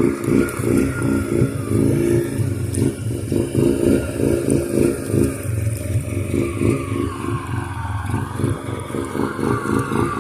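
Suzuki Eiger 400 ATV's single-cylinder four-stroke engine running under load as it pushes through flood water, its note wavering with the throttle.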